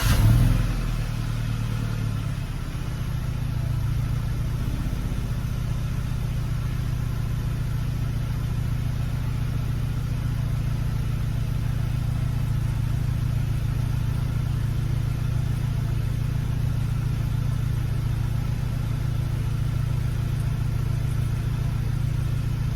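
2009 BMW 3 Series (E90 LCI) engine catching as it starts and flaring up briefly, then settling over about two seconds into a steady idle through the stock exhaust.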